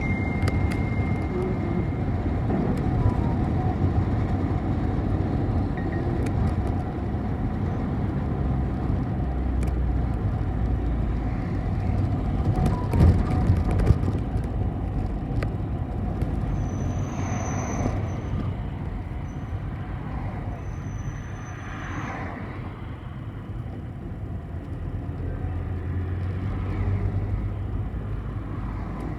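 City bus in motion: steady engine and road rumble from inside the bus, with a few brief knocks about halfway through and two short, high squeals in the second half.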